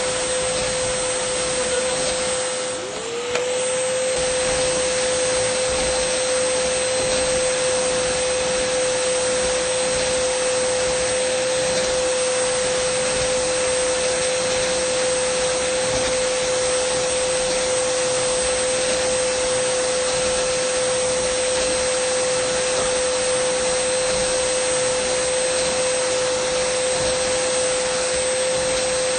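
Dyson vacuum cleaner running steadily: a high motor whine over a rushing hiss of air. About three seconds in the sound dips briefly and the whine slides back up to its pitch.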